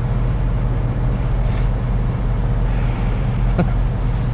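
Diesel semi-truck engine idling with a steady low hum.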